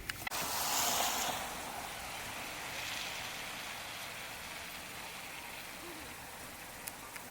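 Vehicle tyres hissing on a slushy, snowy road. The hiss swells sharply just after the start, peaks about a second in, then slowly fades away.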